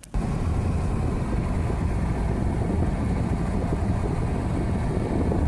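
Steady low rumble and rushing noise of a moving vehicle, starting abruptly just after the start.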